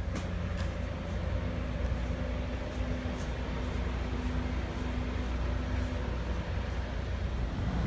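Steady low engine rumble of a motor vehicle, with a steady hum held through the middle.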